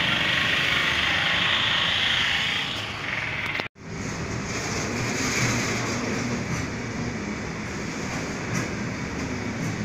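Railway train running past with a steady rumble and rail noise. The sound cuts out abruptly for an instant about a third of the way through, then the rumble carries on.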